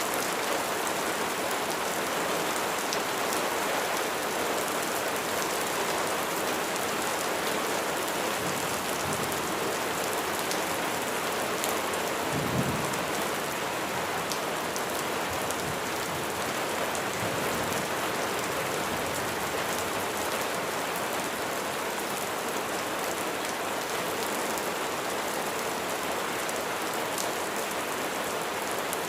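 Steady rain falling and pattering on surfaces, an even hiss of drops. About halfway through there is a brief low rumble.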